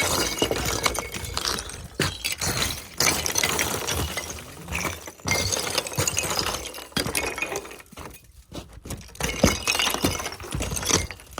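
Thick sheets of ice breaking and cracking, with pieces clinking and shattering together in an irregular run of sharp cracks, quieter for a moment about eight seconds in.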